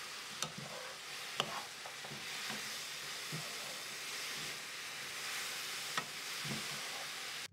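Dried anchovies, walnuts and garlic sizzling in a frying pan as two wooden spatulas stir and toss them, with a steady hiss, the rustle of the small dry fish, and three sharp knocks of the spatulas against the pan. The sound cuts off suddenly at the end.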